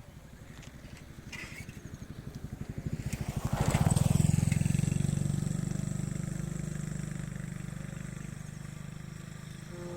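A vehicle engine getting louder, its firing pulses speeding up, loudest about four seconds in, then running on as a steady hum that slowly fades.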